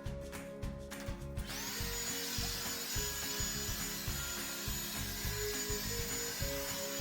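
Revlon One-Step hair dryer brush starting up about a second and a half in and then blowing steadily: a hiss of air with a thin high motor whine over it.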